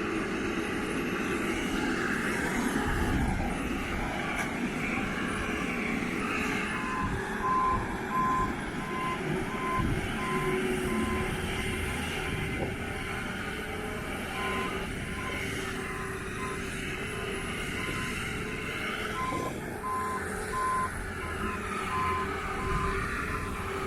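Boatyard travel lift's engine running steadily as it hauls out a boat, with its reversing alarm beeping about once a second from about seven seconds in.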